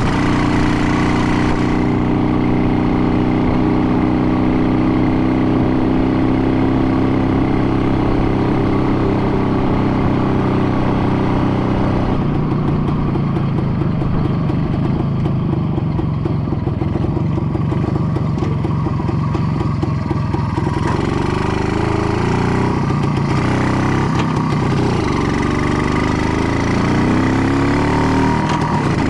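An engine running steadily, its pitch shifting about twelve seconds in and rising and falling several times near the end.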